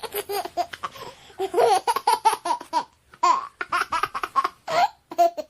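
Baby laughing in many short, high-pitched bursts, with a couple of brief pauses.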